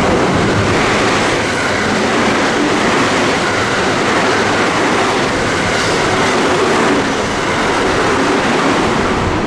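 Train passing through a station at speed without stopping: a loud, steady rush of wheels on rail and car bodies going by, easing slightly about seven seconds in.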